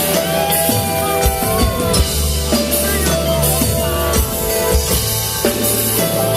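Live rock band playing an instrumental passage: drum kit keeping a steady beat under bass and electric guitar, with sliding guitar notes.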